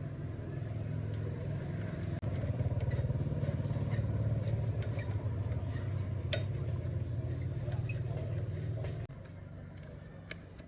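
A machine's motor running with a steady low hum, which gets louder about two seconds in and drops off suddenly a little before the end, with a few light clicks over it.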